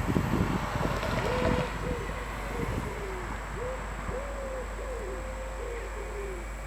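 A dove or pigeon cooing, a series of short hooting notes repeated irregularly, after a fading low rumble in the first second or so.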